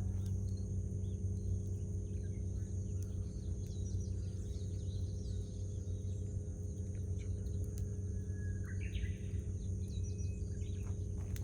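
Campfire burning with a steady low rumble and a few scattered crackles, while wild birds call; a short burst of bird calls comes about nine seconds in.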